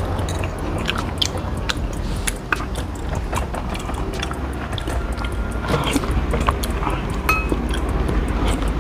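Close-miked chewing and biting of chicken soto, with frequent short sharp clicks from the mouth and the cutlery, over a steady low hum.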